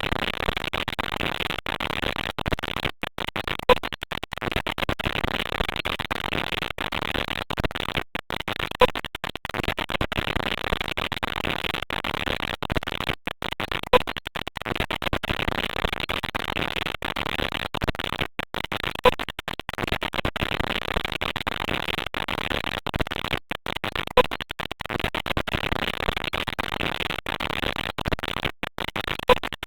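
Glitchy, crackling noise on a spam-call voicemail recording, heard through the phone line's narrow bandwidth and broken by many brief dropouts. A short loud blip of two tones repeats about every five seconds.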